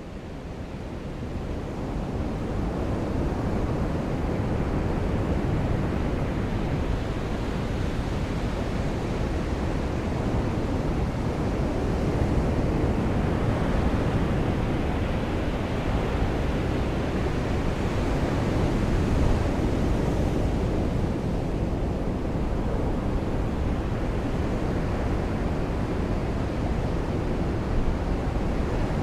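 Ocean surf washing on a beach in the rain: a dense, steady rush, heaviest in the low end, that fades in over the first few seconds.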